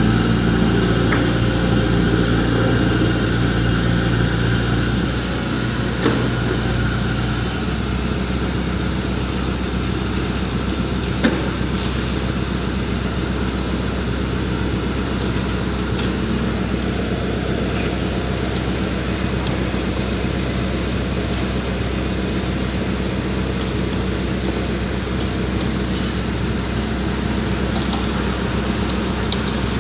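Heavy diesel engine running steadily, easing down a little about five seconds in, with a couple of short metallic knocks.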